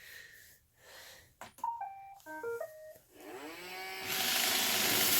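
iRobot Roomba started with a button click, playing its short start-up tune of electronic beeps, then its vacuum and brush motors spinning up with a rising whine into a steady loud whir about four seconds in.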